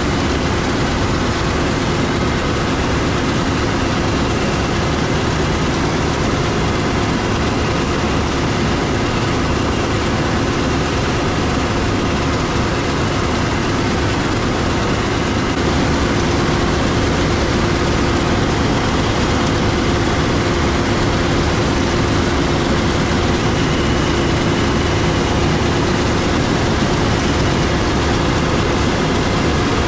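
Heavy harvest machinery running steadily, a continuous diesel drone with a steady whine over it, growing slightly louder about halfway through.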